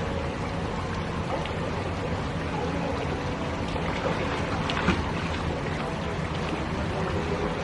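A motor running steadily under a rushing noise, with a few light knocks.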